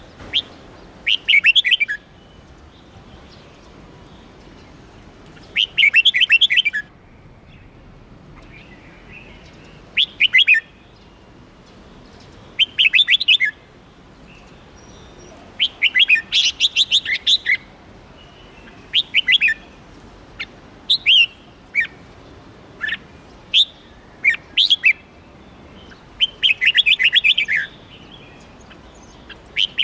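Red-whiskered bulbul singing: short, bubbly whistled phrases, each about a second long, repeated every two to four seconds.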